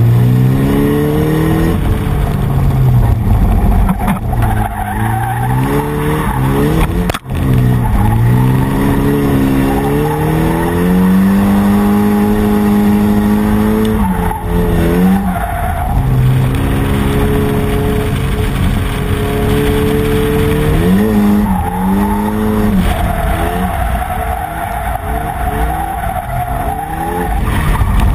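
Drift car's engine revving up and falling back again and again through a run of corners, held high for a couple of seconds midway, with tyres skidding underneath. The sound drops out for an instant about seven seconds in.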